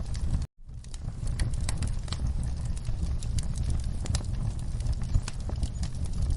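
Wood fire crackling in a fireplace: irregular sharp pops and snaps over a steady low rumble of the flames. The sound cuts out for a split second about half a second in, then carries on.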